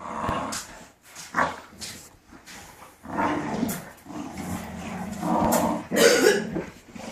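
Puppies growling and yapping in rough play, with a few short sharp barks; the loudest bark comes about six seconds in.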